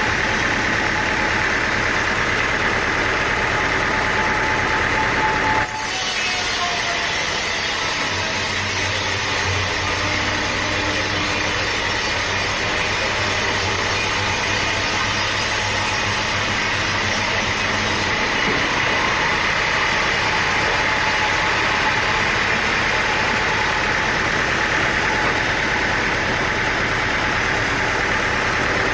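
Sawmill machinery running steadily, loud and continuous, with an abrupt change in the sound about six seconds in, when a high hiss joins until about eighteen seconds in.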